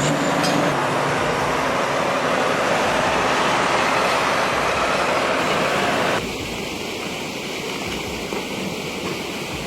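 Steady rushing noise from heavy trucks' engines and road travel. About six seconds in it cuts abruptly to a quieter, duller steady rush of river water.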